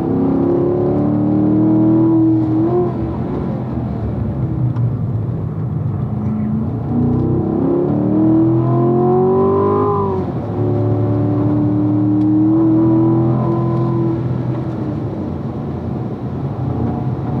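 2016 Corvette's V8 engine, heard from inside the car, on a hard track lap. It rises in pitch under acceleration and falls as the driver slows for a corner and drops from third to second gear. It then pulls up through second, with sudden drops in pitch at the upshifts to third, about ten seconds in, and to fourth, about fourteen seconds in.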